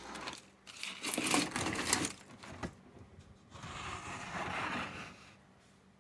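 Handling noise as a plastic model diorama is picked up and turned around: clattering and rustling with a few sharp clicks, loudest about a second in, then a softer scraping rustle near the end.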